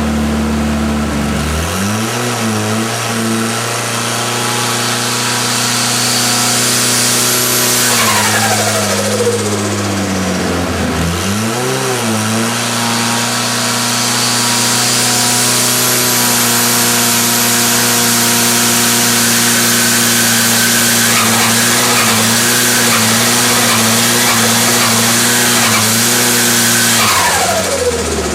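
MG Maestro Turbo's 8-valve engine revved from idle and held at about 3500 rpm, its speed wavering up and down: the engine is surging. The revs drop back and rise again partway through, then fall away near the end.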